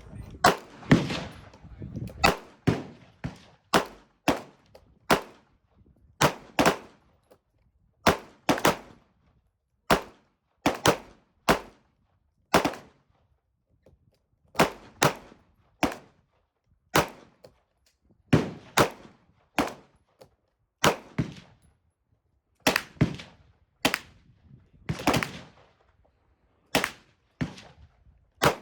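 A series of sharp bangs, irregularly spaced at roughly one to two a second, each ringing out briefly.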